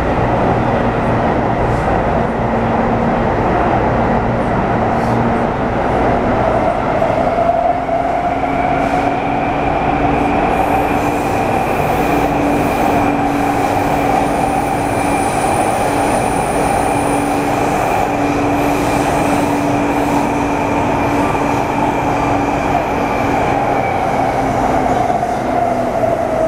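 Taipei Metro C301 subway train with retrofitted propulsion running between stations: the traction motor whine climbs in pitch about 8 seconds in, holds steady, then falls near the end, over a steady wheel-and-rail rumble.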